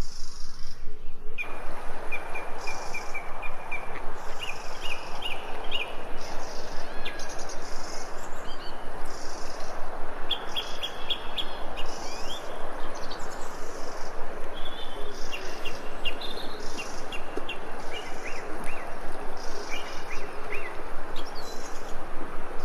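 Small songbirds chirping in short trilled phrases, with higher calls repeating every second or two, over a steady hiss of background noise that starts about a second and a half in.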